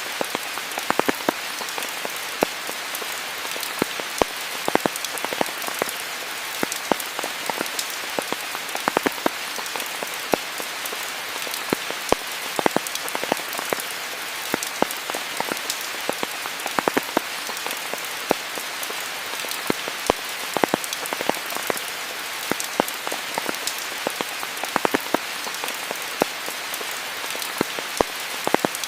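Steady rain falling on foliage, a continuous hiss with many distinct close drops pattering and ticking over it.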